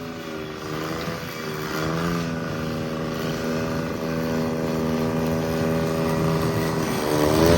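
Cub Cadet 782 garden tractor engine running steadily, its speed rising briefly and settling back a few times.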